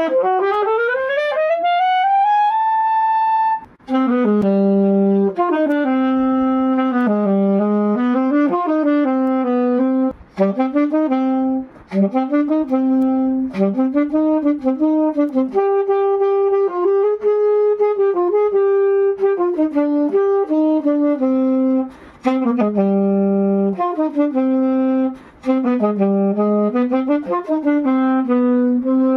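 Jupiter JAS-510Q E-flat alto saxophone played solo. It opens with a long rising glide up to a held high note, then plays a slow melody of held notes in the lower and middle register, with short pauses for breath.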